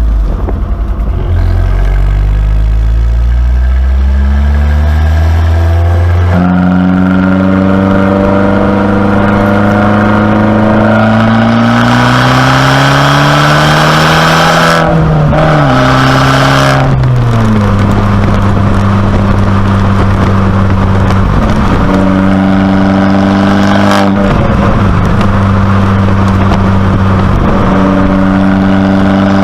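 2019 Abarth 595C Competizione's 1.4-litre turbocharged four-cylinder engine, heard through its Record Monza exhaust, accelerating. The engine note rises, drops at a gear change about six seconds in, then climbs again. Around the middle it falls back and settles to a steady cruise.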